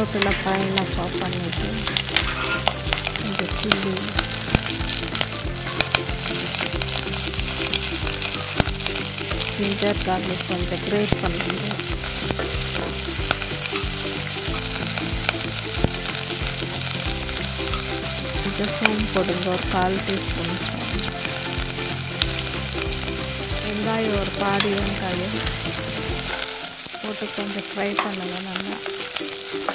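Curry leaves, then chopped green chillies, ginger-garlic and sliced onions sizzling and crackling in hot oil in a stainless steel kadai, with occasional taps and scrapes of a spatula.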